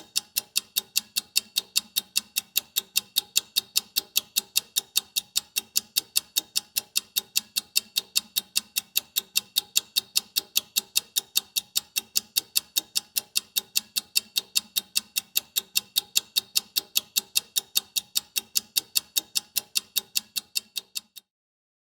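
Clock ticking fast and evenly, about four to five ticks a second, each a sharp, bright click. The ticking cuts off suddenly near the end.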